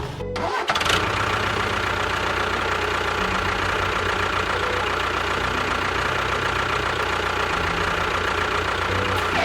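Small motor of a DIY mini tractor-bulldozer running steadily with a thin high whine over it. The sound briefly cuts out just after the start, then runs on evenly.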